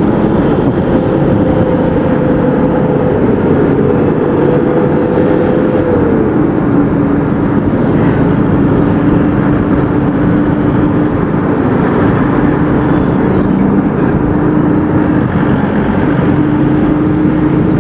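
Motorcycle riding at road speed, its engine running under a steady rush of wind and road noise. The engine note drops in pitch about six seconds in and then holds steady.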